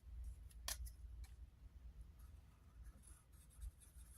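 Near silence with a few faint clicks and rustles of hands handling things, the sharpest click a little under a second in.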